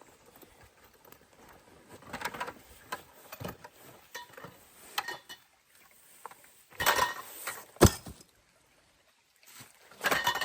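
Irregular rustling and handling noises, with a sharp knock about eight seconds in.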